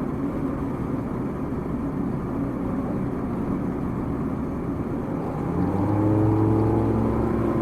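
Car running along the road, steady engine and tyre rumble; about five and a half seconds in, the engine note rises slightly and holds louder as the car pulls away or accelerates.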